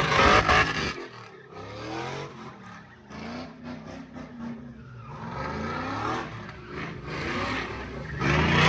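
A car engine revving hard, its pitch climbing and falling several times, with a loud burst in the first second and again near the end, typical of a car doing stunts at a sideshow.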